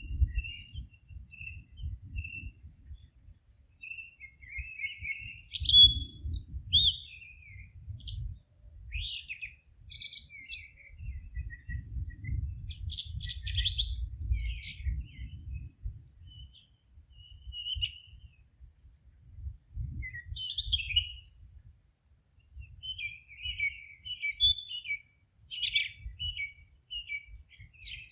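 Songbirds singing and chirping in a forest: a steady run of short whistles, chirps and quick trills, with an uneven low rumble beneath them.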